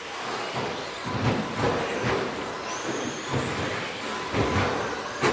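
A pack of 1/10-scale electric 2WD radio-control trucks racing, their 13.5-turn brushless motors whining and rising in pitch over a steady rush of noise, with several low thumps.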